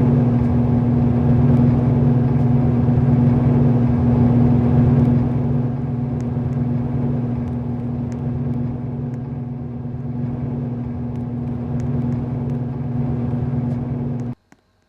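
Ceiling fan running, its motor giving a steady hum with a rushing of air over it; it cuts off suddenly near the end.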